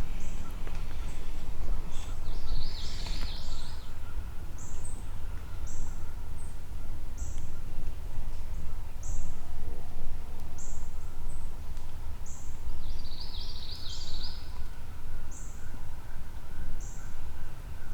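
Woodland songbirds calling: one bird repeats a thin, high note about every second and a half, and twice, about three seconds in and again near fourteen seconds, a bird gives a short chattering song. A steady low rumble lies underneath.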